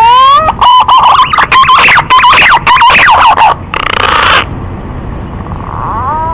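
Green pigeon (punai) calling. A rising whistled glide leads into a rapid run of warbling whistled notes, ending in a harsh, rasping burst about four seconds in. Another rising whistle begins near the end.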